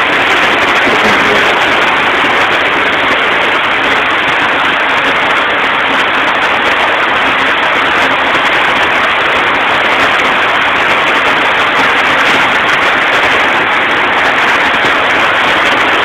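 Avions Voisin C24's 3-litre sleeve-valve straight-six running steadily, heard under a constant hiss.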